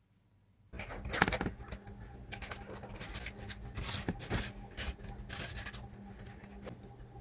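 Plastic being handled: irregular crinkling and tearing with sharp clicks, starting suddenly about a second in.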